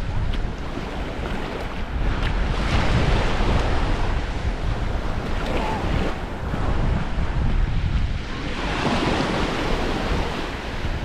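Small waves washing onto a sandy beach, the hiss of the wash swelling twice, with wind buffeting the microphone in a low rumble.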